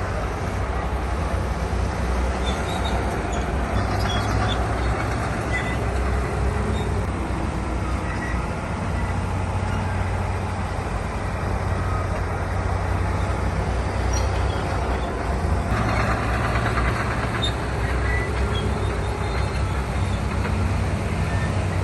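Heavy diesel earthmoving machinery running under load, a steady low engine note with scattered faint clinks, growing noisier with a broader rush about three quarters of the way through.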